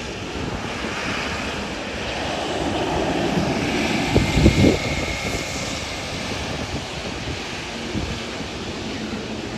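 Boeing 777-300ER's twin GE90 turbofans running at low power before the takeoff roll, with a faint steady whine, mixed with wind buffeting the microphone and surf.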